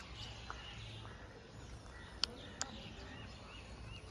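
Small birds chirping faintly, a string of short arched chirps repeating at intervals. Two sharp clicks about a third of a second apart, a little past two seconds in, are the loudest sounds.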